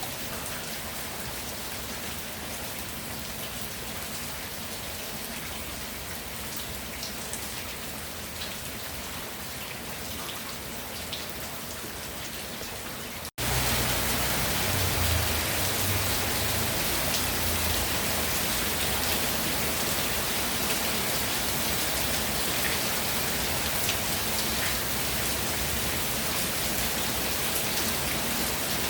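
Steady rainfall, an even hiss with scattered drop ticks. About halfway through, the sound cuts out for an instant and comes back louder and fuller, as at a splice between two recordings.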